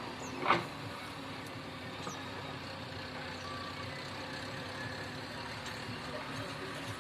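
Heavy diesel machinery engine running steadily, with one short, loud knock about half a second in.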